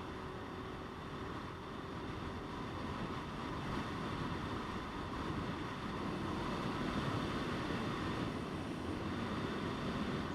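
Motorcycle on the move, heard from the rider's position: steady engine and road noise mixed with wind on the microphone, getting louder about four seconds in.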